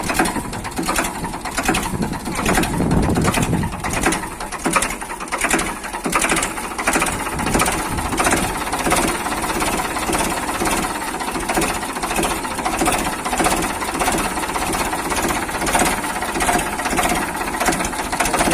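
Mini tractor's small engine running steadily under load, with an even knocking beat about twice a second.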